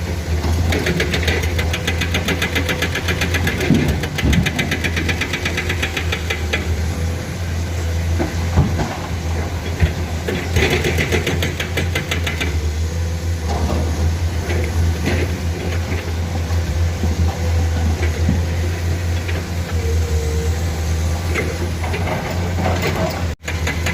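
Diesel engines of hydraulic excavators working under load: a steady low drone with stretches of fast rattling and a few sharp knocks and clanks.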